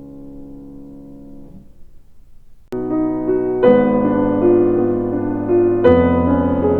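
Background piano music: a soft held chord fades out about two seconds in, then louder piano chords begin just under three seconds in, with fresh chords struck twice more.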